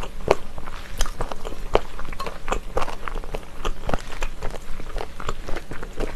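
Close-miked chewing of spicy chicken feet: the cartilage crunches in the mouth in quick, irregular crackly clicks, several a second.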